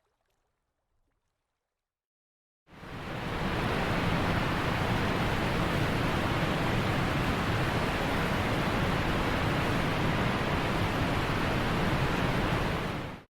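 Near silence, then a steady, even rushing noise fades in about three seconds in and holds level for about ten seconds before stopping abruptly.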